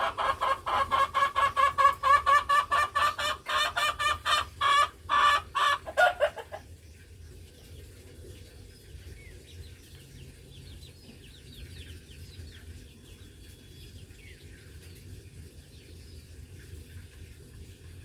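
Chicken clucking in a fast, loud run of repeated calls, about four or five a second, that stops abruptly about six seconds in; after that only faint, short high chirps are left.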